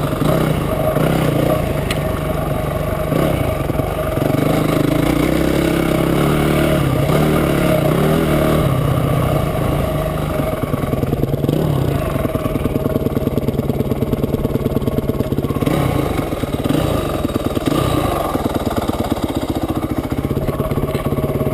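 Motorcycle engine running on a trail ride, its pitch rising and falling with the throttle. In the last few seconds it settles into a slower, evenly pulsing beat.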